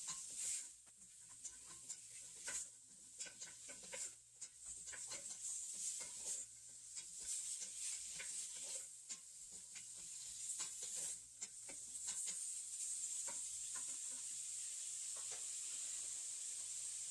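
Beef, radish and chili powder sizzling in sesame oil in a pot on medium heat, stirred with a utensil that clicks and scrapes against the pot at irregular moments over a steady high hiss.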